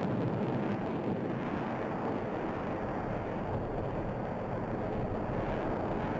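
Jet aircraft engine noise: a steady rushing rumble with no change in pitch.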